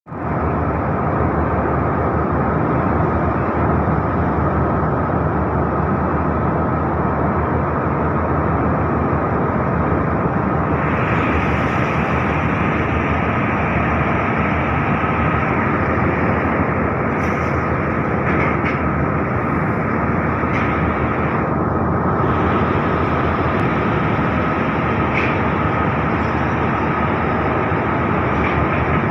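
Survey vessel under way: a steady, loud rumbling rush with a faint steady whine running through it, and a few faint clicks in the second half.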